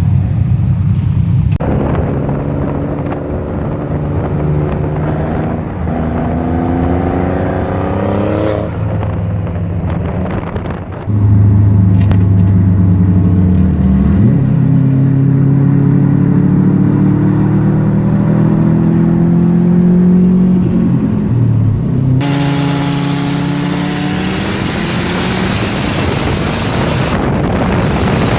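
Car engine accelerating, its pitch climbing and dropping back several times as it goes up through the gears. The sound changes abruptly a few times, and the last part carries a strong rushing hiss.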